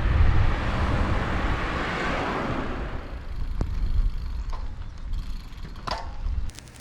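Outdoor road noise: a rushing sound that swells and fades over a low rumble, followed by a few sharp clicks.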